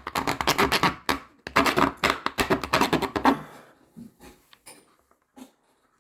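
Hand tool scraping and cutting hard plastic in quick repeated strokes, which stop about three and a half seconds in; a few light taps follow.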